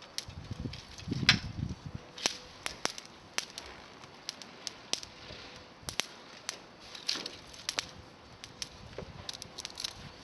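Dry climbing-rose twigs snapping and cracking with irregular sharp snaps, the loudest about a second in, over a low rustling in the first two seconds.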